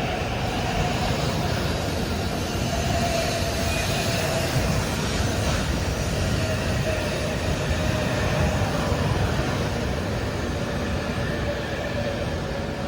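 E7 series Hokuriku Shinkansen train running, a steady rumble of rolling noise with a single tone that slowly falls in pitch.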